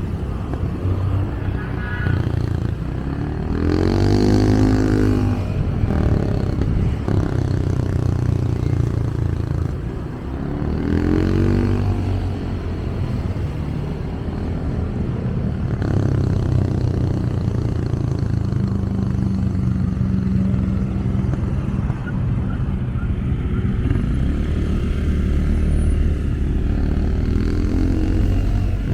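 Motorcycle engine running under a rider through city traffic. Its note rises and falls three times as the bike speeds up, over a steady rumble of traffic and wind.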